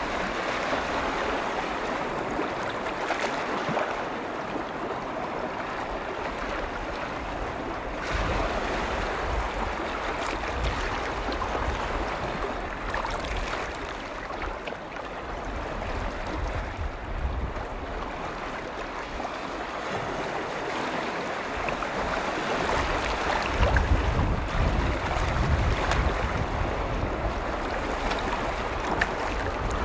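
Small lake waves lapping and washing on a shore: a steady wash that swells and eases every few seconds. Gusts of wind rumble on the microphone in the last third.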